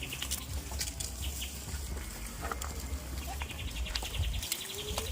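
Goats on a farm: scattered clicks and knocks, and near the end one goat's bleat rising in pitch, over a steady low rumble.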